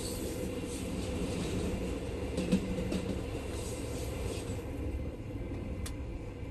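A freight train of tank cars and boxcars passing close by on the next track, heard from inside a moving passenger carriage: a steady rush of wheel and air noise with a few sharp clacks, the loudest about two and a half seconds in. Near the end the hiss drops away as the last wagon clears, leaving the low rumble of the carriage's own running.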